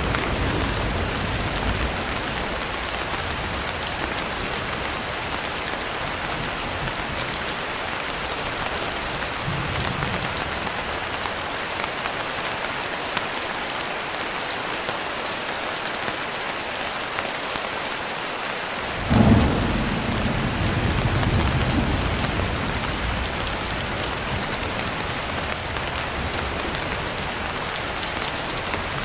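Steady heavy rain hissing, with a sudden thunderclap about two-thirds of the way through that rolls on as a low rumble for a few seconds. A fading thunder rumble is also heard at the start.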